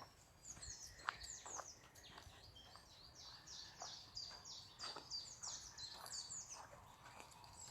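Faint chorus of woodland songbirds: many quick, high chirps, each sliding downward, repeated in rapid runs, with a few soft clicks among them.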